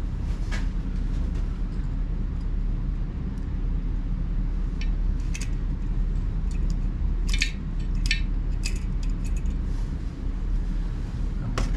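Scattered light metallic clinks and clicks of small hardware and hand tools being handled: nuts, washers and tools knocking together. They come irregularly, about a dozen in all, over a steady low hum.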